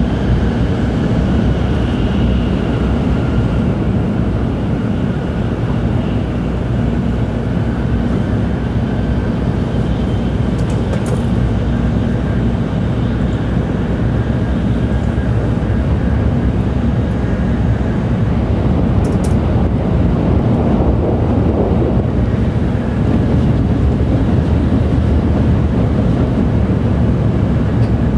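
Tokaido Shinkansen train running, heard from inside the passenger car: a steady, loud rumble of wheels and running gear with faint higher tones over it.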